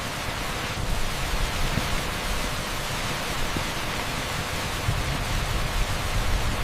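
Heavy rain pouring onto an asphalt street: a steady, dense hiss with an uneven low rumble underneath.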